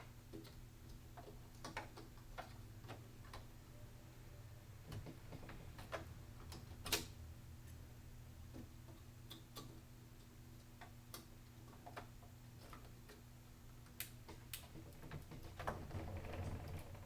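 Scattered light clicks and taps at an uneven pace as hands handle computer parts during a PC assembly, over a steady low hum. A brief rustle comes near the end.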